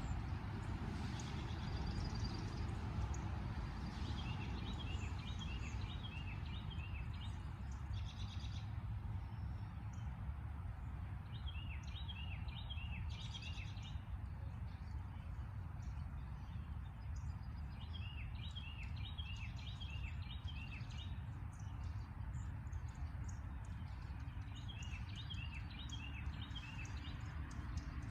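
A songbird singing: a phrase of short, repeated arched notes, given five times, about every six to seven seconds. A steady low rumble of background noise runs underneath.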